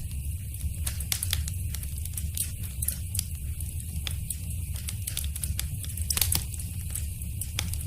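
Wood fire crackling in a fireplace: scattered sharp pops and snaps over a steady low rumble, with a burst of louder pops about three-quarters of the way through.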